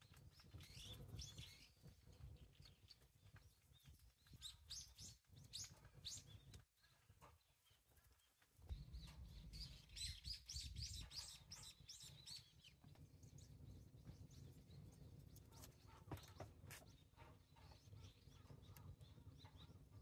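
Faint bird chirps, several short runs of quick high calls, over a steady low rumble.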